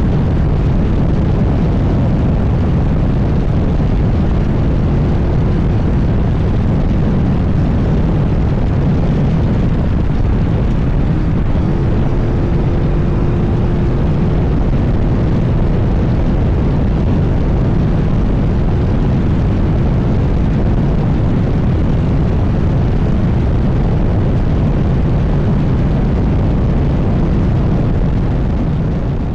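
International Race Cars Class 1 all-wheel-drive off-road race car driven hard, heard from the passenger seat: a loud, steady engine and drivetrain rumble that fades out near the end.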